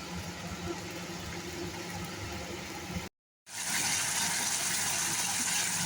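Spice paste sizzling in hot oil in a pan while it is stirred and fried down, with a faint scraping. About three seconds in the sound drops out for a moment and comes back as a louder, steady sizzle.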